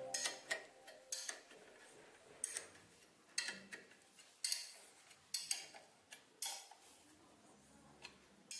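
Ratchet wrench turning bolts on a steel mounting plate: faint, separate metallic clicks and clinks, roughly one a second.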